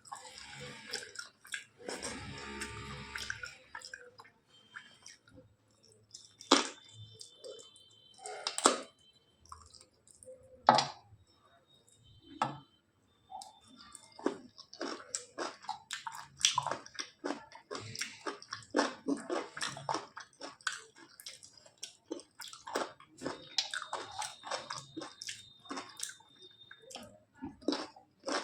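Close-miked chewing and wet mouth sounds of someone eating rice with curry: irregular smacks and clicks, with a few louder sharp clicks about a third of the way in.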